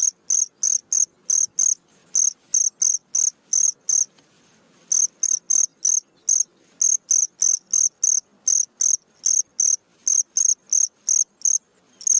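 Cricket chirping: short, high-pitched chirps repeated evenly at about three to four a second, with a pause of about a second partway through.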